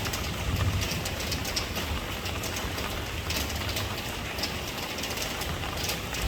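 Steady rain: a dense hiss of rainfall with sharper individual drops ticking through it, over a low, uneven rumble.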